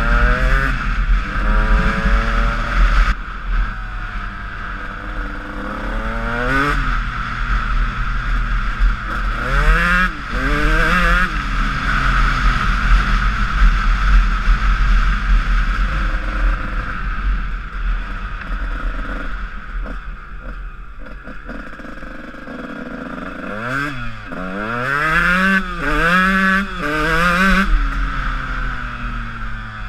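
Honda CR125 two-stroke motocross engine revving up and shifting in several bursts of acceleration, its pitch climbing through the gears. The bursts come about a third of the way in and again near the end, with a steadier, quieter stretch between.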